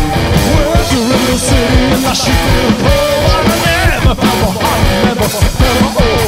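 A garage-punk rock band playing live: electric guitar with bending notes over a steady drum beat.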